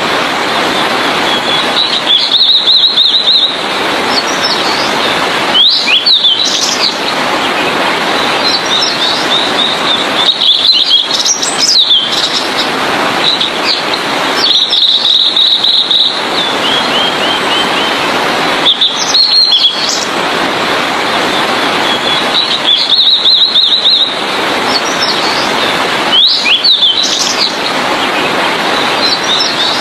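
Blue-and-white flycatcher singing: short, high, sweet phrases repeated every few seconds, over a steady rushing noise that breaks off briefly between passages.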